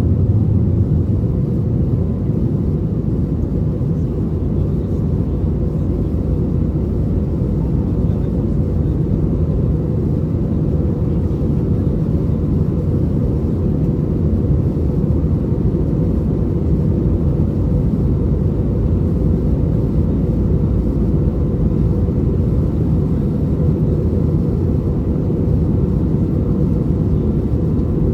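Steady cabin rumble of an Airbus A320neo with CFM LEAP-1A engines, heard from inside the passenger cabin, with no rise or fall in engine pitch.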